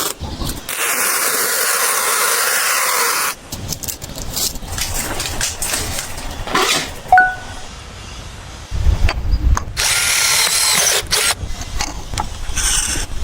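Power drill running in short bursts: a steady run for a couple of seconds near the start and another, with a deeper rumble, about two-thirds of the way in. Clicks and knocks of tool handling come between the runs, with a brief metallic ping.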